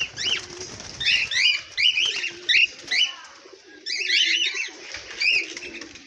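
Pet birds chirping in quick runs of short, sharp calls, with a low cooing underneath; the chirping pauses briefly past the middle.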